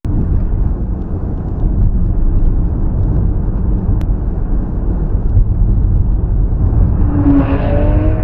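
Steady loud low rumble of a vehicle on the road, with a sharp click about four seconds in and a short pitched sound near the end.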